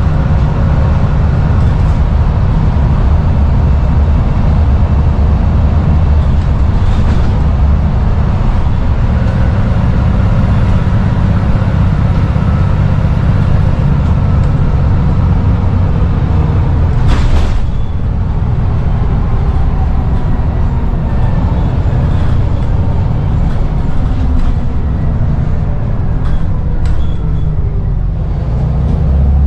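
Scania N94UD double-decker bus's 9-litre five-cylinder diesel running steadily on the road with a heavy low drone. About 17 seconds in there is one brief sharp noise, and after it the engine note drops slightly.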